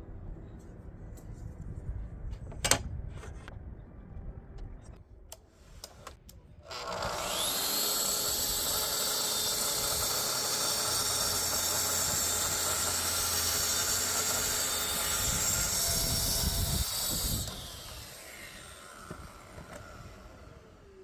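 A few knocks, then an electric power tool switches on, spins up with a rising whine and runs steadily at full speed for about ten seconds before switching off and winding down with a falling whine.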